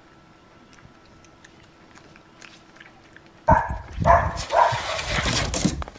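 A few seconds of faint ticking, then about three and a half seconds in a sudden loud scuffle of animals with repeated cries.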